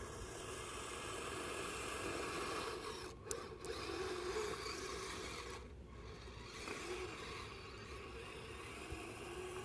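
Kyosho Blizzard RC snow vehicle running over snow: a steady scraping rush with a faint motor whine whose pitch rises and falls with the throttle. There is one sharp click about three seconds in.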